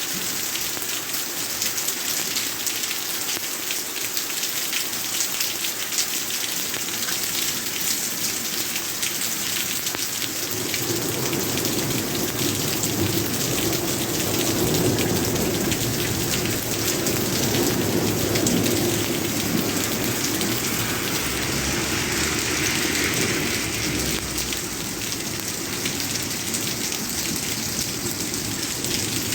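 Steady heavy rain pattering on surfaces, with a low rumble of thunder building about a third of the way in and dying away near the end.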